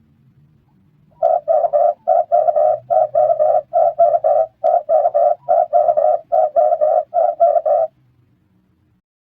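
Red turtle dove cooing: a rapid run of short, low coos, mostly in groups of three, repeated steadily for about six and a half seconds. It starts about a second in and stops shortly before the end.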